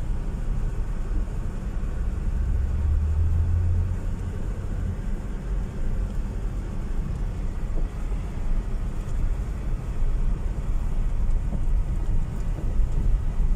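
Car driving slowly on a gravel road, heard from inside the cabin: a steady low rumble of engine and tyres on gravel, briefly stronger a couple of seconds in.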